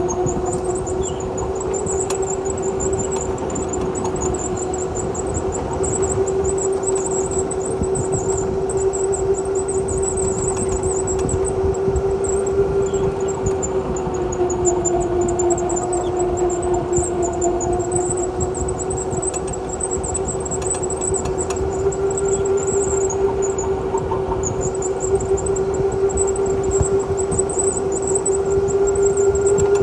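Go-kart motor running steadily under way, a sustained whine whose pitch sags a little partway through and climbs back, with a thin high whine above it and rolling noise underneath.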